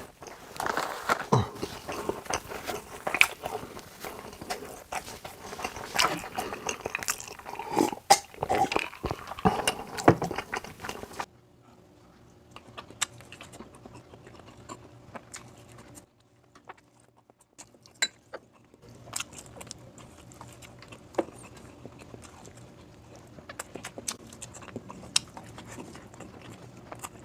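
Close-miked eating: chewing and biting food with wet mouth clicks and smacks. The first eleven seconds or so are loud and dense, then it cuts suddenly to quieter, sparser chewing with a brief hush in the middle.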